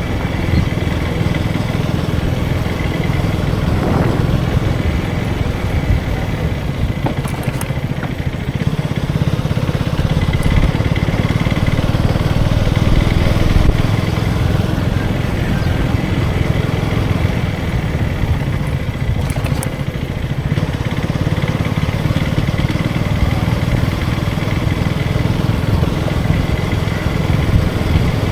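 KTM 250 Duke's single-cylinder engine running steadily while riding, with wind and road noise.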